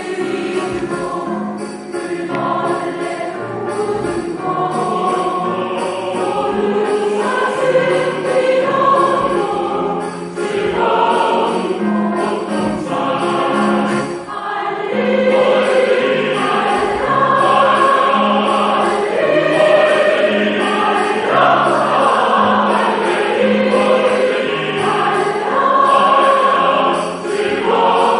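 Choir singing with instrumental accompaniment, a bass note repeating about once a second beneath sustained sung chords, in a waltz.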